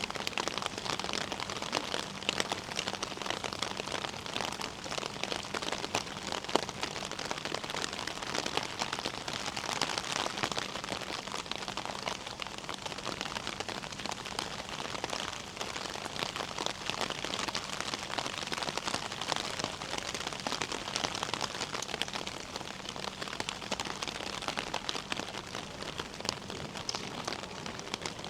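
Steady rain with a dense patter of drops striking close by.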